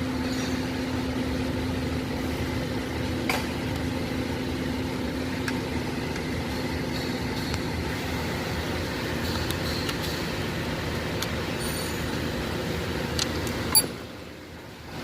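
Steady background engine hum with a few light metallic clicks from hand tools working on a car's steering column; a sharper click comes near the end, and the hum drops away suddenly.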